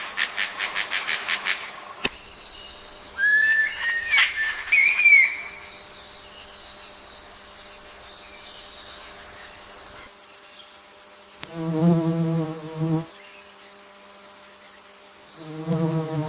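Forest wildlife calls. It opens with a rapid clicking trill of about eight pulses a second, followed a couple of seconds later by a few short, gliding whistled bird calls. Two low, buzzy calls come later, one about halfway through and another near the end.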